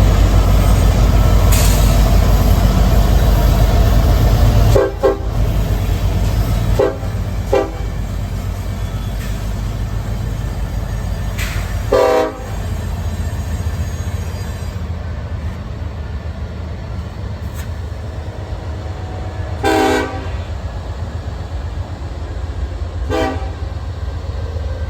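Diesel freight locomotive passing, its engine rumbling loud for the first five seconds and then quieter, while its air horn sounds a series of short blasts.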